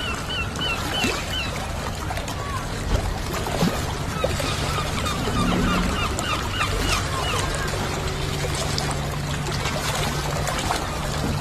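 Water trickling and splashing, with a bird repeating short chirping notes in quick runs: one run at the start and another around five seconds in.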